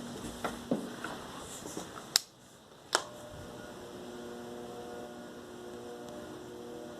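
Two sharp clicks less than a second apart, then a steady electric hum with a few fixed tones from a Spirit ceiling fan's motor running.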